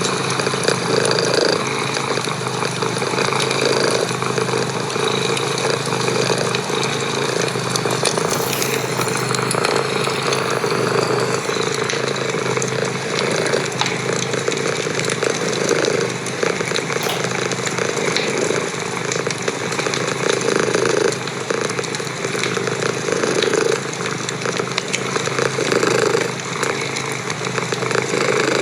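Cat purring close up, a steady buzzing rumble that swells every two to three seconds with each breath.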